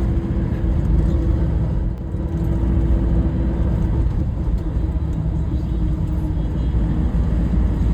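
Motor vehicle on the move: a steady low engine and road rumble with a constant hum.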